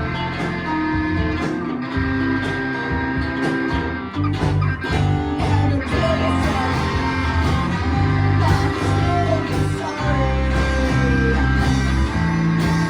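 A rock band playing live, with electric guitar prominent over bass and drums and a voice singing.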